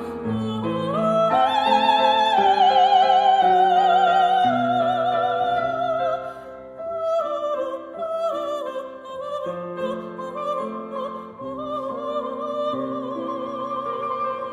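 Operatic high voice, a soprano, singing a vibrato-laden melody over piano accompaniment. A long held note swells about two seconds in and falls away around six seconds.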